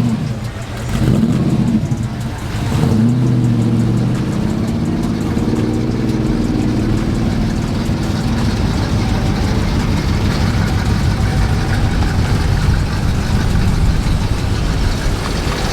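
Car engine revving up and down a couple of times in the first few seconds, then a steady loud running noise.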